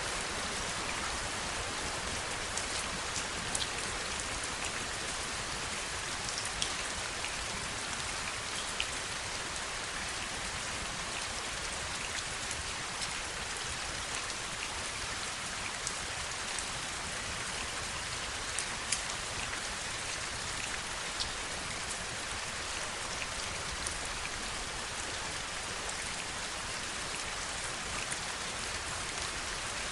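Steady heavy rain, an even hiss with many individual drops ticking sharply close by, scattered irregularly throughout.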